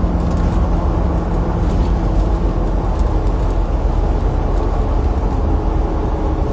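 Steady low rumbling hum with faint ticks above it.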